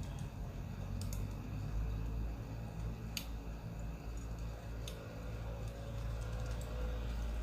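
Wood fire crackling, with a few sharp pops over a steady low rumble.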